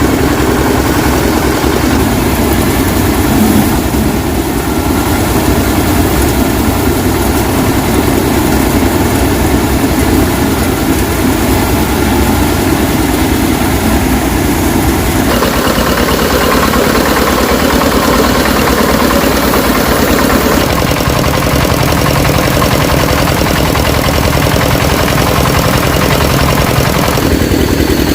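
A loud engine running steadily, its tone shifting a few times, about halfway through and again near the end.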